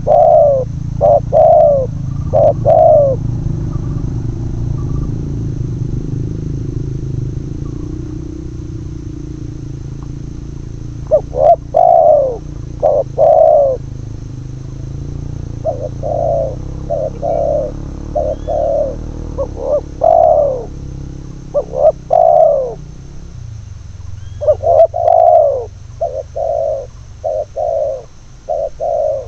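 Spotted doves cooing in bouts of repeated short, arched notes with pauses between the bouts, over a low steady rumble that fades late on.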